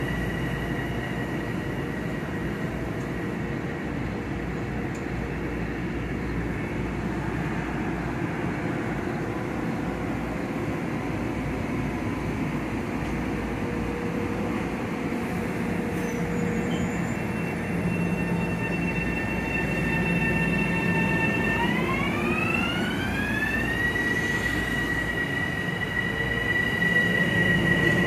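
Metro-North electric multiple-unit train at the platform: a steady low rumble under several high electrical tones. Near the end the tones glide upward together over about two seconds, then hold at the higher pitch.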